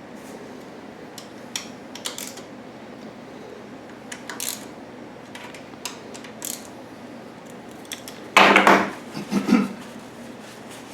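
Hand work with tools and small metal parts: scattered light clicks and clinks, then a louder clattering rattle about eight and a half seconds in that lasts about a second.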